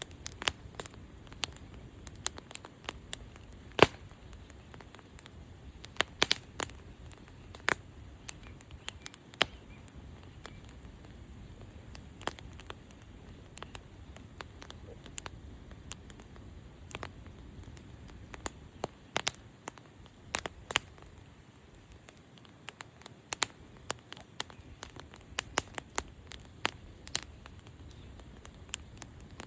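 Campfire crackling: irregular sharp pops and snaps over a soft, steady hiss, with one louder pop about four seconds in.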